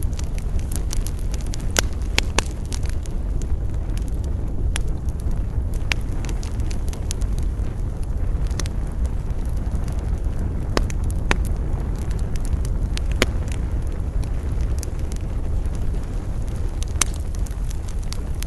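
Wood campfire crackling, with scattered sharp pops and snaps over a steady low rumble of wind.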